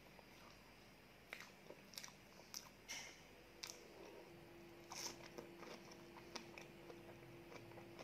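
Faint, close-miked biting and chewing of a soft cream-filled pastry: scattered wet mouth clicks and smacks.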